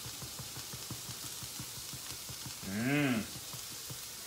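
Spiced vegetables frying in a pan with a faint sizzle and a rapid run of soft ticks, about eight a second. About three seconds in, a short hummed "mmm" from a man's voice rises and falls in pitch and is the loudest sound.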